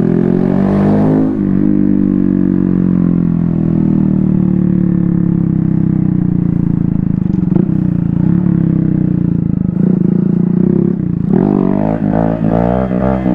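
Small motorcycle engine running under way at a steady pace, its pitch easing slowly down, then rising and falling with throttle changes near the end.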